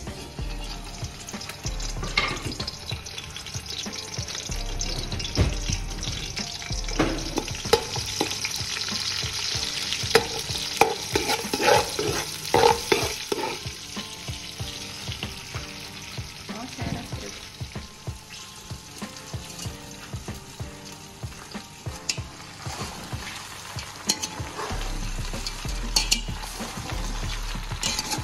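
Hot olive oil sizzling in a metal pot as chopped aromatics and whole king prawns are dropped in and stirred, with a steady hiss and repeated clicks and knocks of food and ladle against the pot. The sizzling is busiest in the first half.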